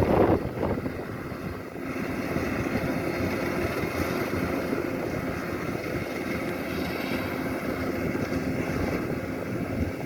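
Kubota DC-105X combine harvester's diesel engine running steadily, with a louder swell in the first half second.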